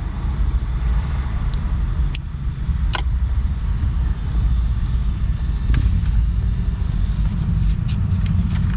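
Steady low rumble with scattered small clicks and ticks, the sharpest about two and three seconds in, from handling a paper planner and stickers.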